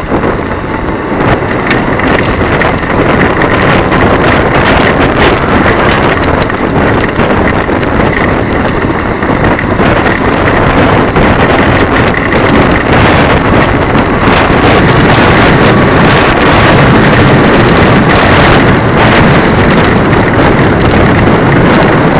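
Wind rushing over a camera microphone mounted on a moving electric recumbent bicycle: a loud, steady rush of noise with no clear engine note.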